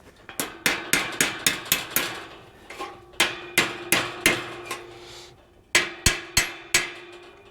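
Hammer driving a steel roll pin into a spring-loaded gate bolt to hold the spring and washer, with sharp metal-on-metal blows in three quick runs separated by short pauses. The steel gate rings between strikes.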